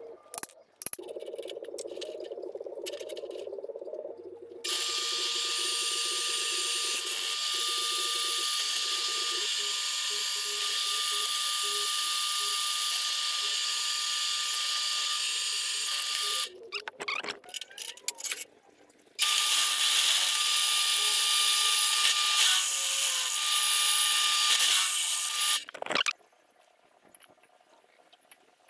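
An electric power tool working on metal: a high steady squeal and hiss with a constant whine, in two long runs broken by a short pause about two-thirds of the way through. A lower hum comes before the first run.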